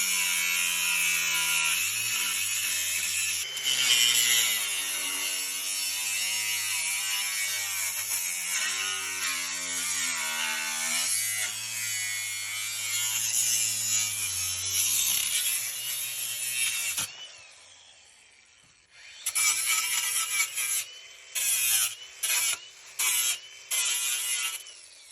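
Handheld power tool running under load on metal, its motor pitch sagging and recovering for about seventeen seconds, then a short pause and several brief bursts of the tool near the end.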